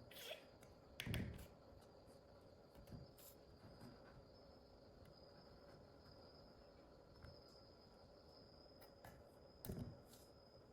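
Very quiet handling sounds: a soft knock about a second in and another near the end, with a few light clicks, over a faint steady high whine.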